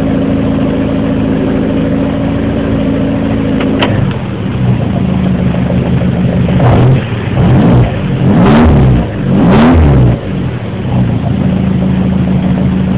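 Car engine idling steadily, its note changing about four seconds in, then blipped four times in quick succession, each rev rising and falling, before settling back to idle.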